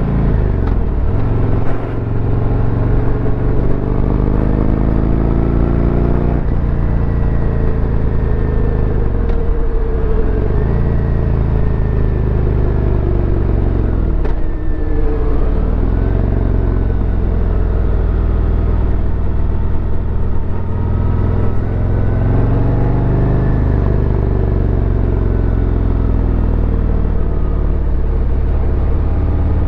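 Harley-Davidson Road Glide's V-twin engine running continuously under way, a deep low note whose revs rise and fall several times.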